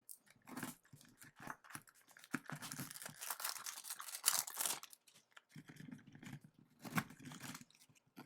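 Packaging being torn open and crinkled by hand as a box of hockey cards is opened. The rustling comes in uneven bursts, busiest about two to five seconds in, with a short pause near the five-second mark before more handling.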